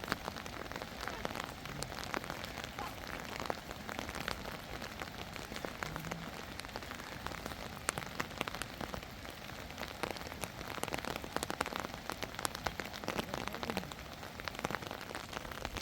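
Steady rain falling, with many separate sharp drop ticks scattered irregularly through it.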